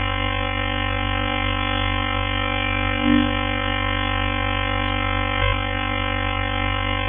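A synthesized sonification of a moon: a steady electronic drone of many held tones stacked over a low hum, unchanging in pitch, with a brief swell about three seconds in.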